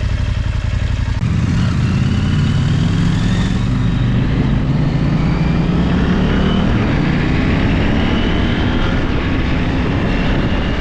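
Parallel-twin adventure motorcycle engine running under way on a dirt trail; its note steps up about a second in and then holds steady, with a constant hiss over it.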